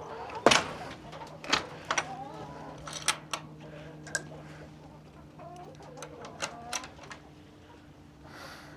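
Chickens clucking and squawking, a loud squawk about half a second in followed by scattered shorter calls, over a faint steady low hum.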